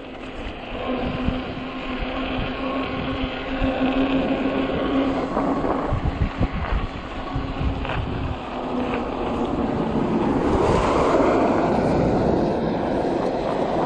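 Hub motor of a 48-volt fat-tire e-bike humming steadily under load as it climbs, the hum dropping out about seven seconds in. Wind rushes on the microphone throughout and grows louder near the end.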